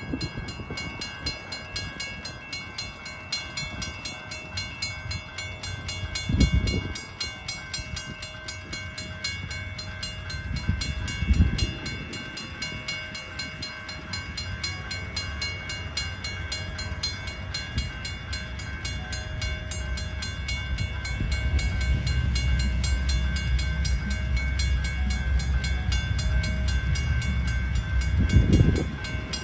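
A grade-crossing bell rings steadily and rapidly as a Norfolk Southern manifest freight approaches. From about 20 seconds in, the low rumble of the train grows loud. Brief low thumps come at about 6 and 11 seconds and again near the end.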